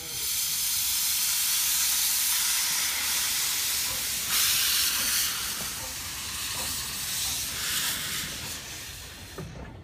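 Steam locomotive No.12 Hutchinson, a Beyer Peacock narrow-gauge tank engine, venting steam: a loud hiss that starts suddenly, swells briefly about halfway and eases off near the end.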